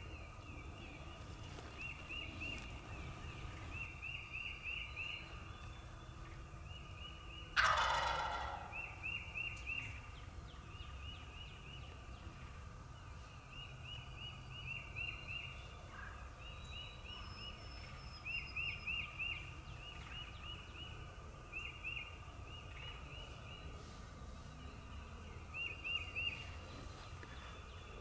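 An eastern wild turkey gobbler gobbles once, loud and rattling, about eight seconds in. Short runs of four to six high calls repeat every second or two throughout.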